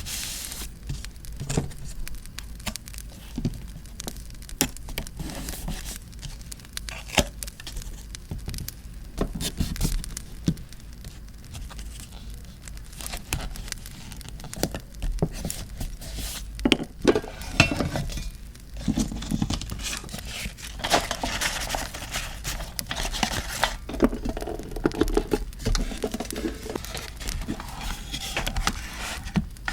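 Paper and stationery being handled close to the microphone: crinkling, rustling and tearing of paper, with many small clicks and taps, busier in the second half. A faint crackling campfire ambience runs underneath.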